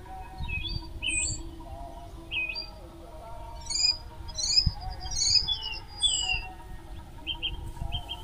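Wild birds chirping, a string of short, high calls that sweep up and down and come thickest around the middle, over a low rumble.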